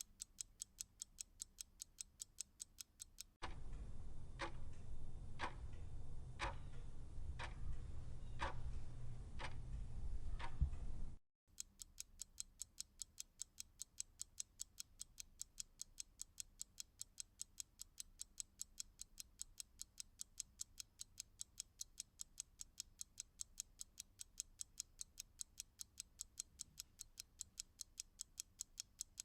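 Clock ticking quickly and evenly, about four ticks a second. A few seconds in it switches abruptly to a louder, slower ticking of about one and a half ticks a second over a low hum. That stops after about eight seconds with a short gap, and the quick ticking returns.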